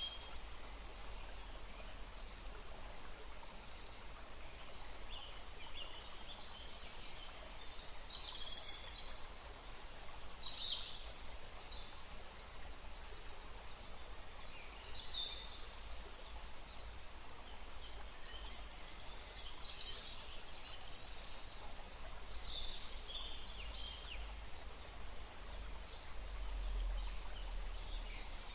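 Songbirds chirping and twittering in many short, high calls, scattered throughout over a steady rushing background.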